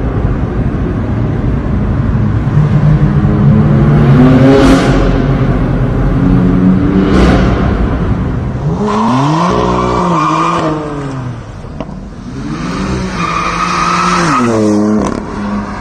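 BMW M4's twin-turbo straight-six, through a performance exhaust, revving up and down hard while the tyres squeal in a drift. In the first half there are three short rushing swells of noise as the car sweeps past. In the second half the revs climb and drop repeatedly over a steady squeal.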